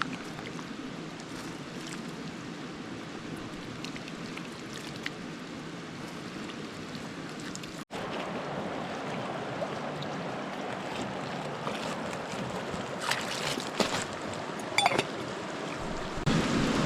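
Steady rushing of a flowing creek. About eight seconds in, a cut brings a brighter, fuller rush, with a few sharp clicks and clatters near the end.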